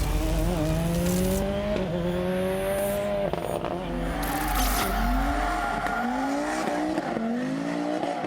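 Historic rally car engine revving hard, climbing in pitch with gear changes about two and three seconds in, then a run of short, quick rising revs near the end.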